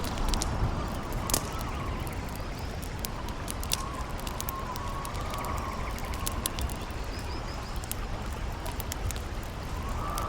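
Campfire crackling with frequent sharp pops over a steady rush of river water, while a howling wind wavers up and down in pitch.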